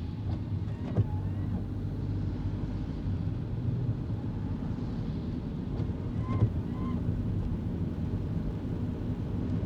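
Kei car driving, heard from inside: a steady low drone of engine and tyre noise. There is a short sharp knock about a second in, and two brief high squeaks in quick succession past the middle.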